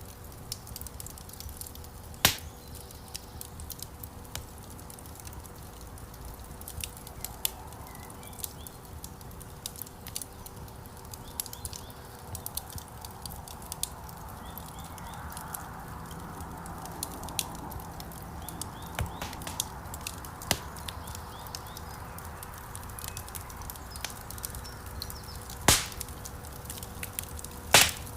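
Wood fire crackling in a fireplace: a steady low rustle of burning logs with frequent small snaps, and three loud pops, one about two seconds in and two near the end.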